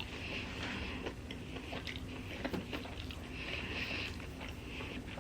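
Faint chewing of a mouthful of toasted sub sandwich, with a few small mouth clicks scattered through.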